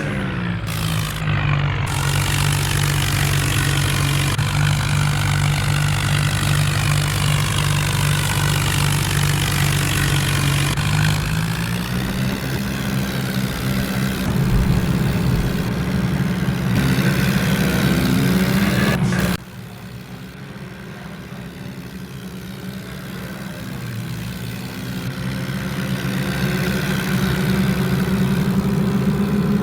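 John Deere tractor's diesel engine running, stepping up in engine speed about eleven seconds in; the sound drops abruptly in level about nineteen seconds in, then builds back up.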